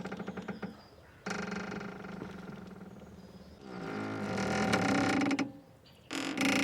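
Boat rope squeaking in a series of long, drawn-out creaks that waver in pitch. One fades out just after the start, another follows about a second in, the loudest runs from about three and a half to five and a half seconds, and a fourth begins near the end.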